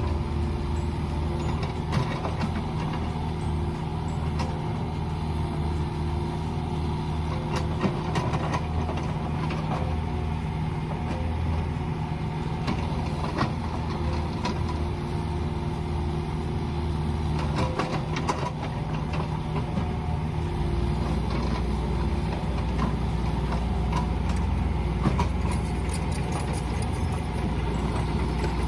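Mini excavator's engine running steadily, with a few sharp clanks. Its low hum grows deeper and stronger about two-thirds of the way through.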